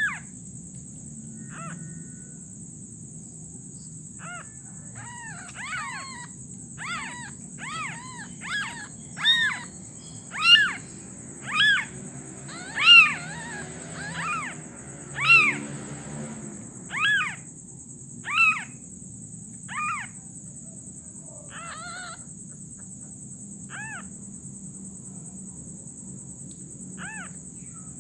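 A young animal's short, high, arching cries, repeated about a dozen times with uneven gaps and loudest in the middle stretch, over a steady high-pitched buzz.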